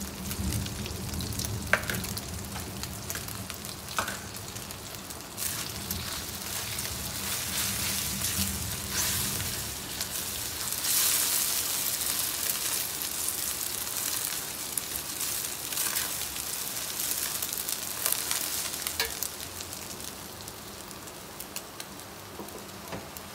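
Egg and diced crab stick frying in oil in a wok, sizzling steadily while a spatula stirs it, with a few sharp knocks along the way. The sizzle swells about eleven seconds in.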